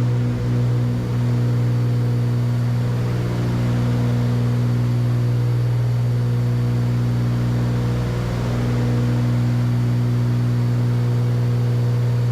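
Cessna 310Q's twin six-cylinder Continental IO-470 piston engines and propellers droning steadily in a climb, with a slow pulsing in the first second or so.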